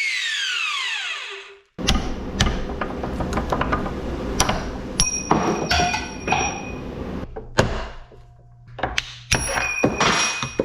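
A power tool's motor winding down, its whine falling steadily in pitch over about a second and a half. Then a busy run of metal knocks, clanks and short ringing clinks as metal parts are handled and struck.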